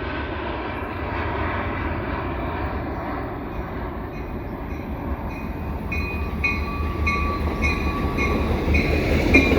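Approaching freight train led by two EMD GP38-2 diesel locomotives: a steady low rumble that grows louder. From about four seconds in, a ringing tone repeats about twice a second.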